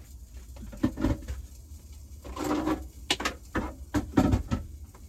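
Light knocks and clatters with a short rustle, objects being handled and set down: about six sharp knocks, most of them in the second half.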